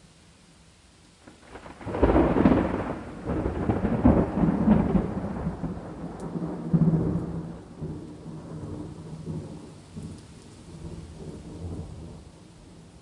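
A thunder clap over steady rain. It builds about a second and a half in and breaks loud at two seconds. It then rolls on in uneven waves and slowly dies away over the next ten seconds, leaving the rain.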